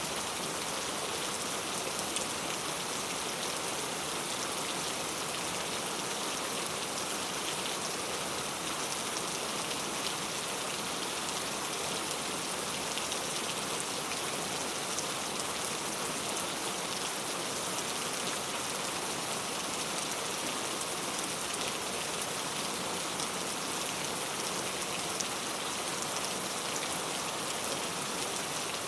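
Heavy rain falling steadily on hard street surfaces, a dense even hiss with countless fine drop ticks.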